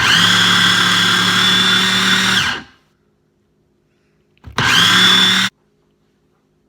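Electric blender motor running a milkshake with chunks of ice cream bar still in it: a loud whine for about two and a half seconds that winds down as it is switched off, then after a pause a second short burst that spins up and cuts off suddenly.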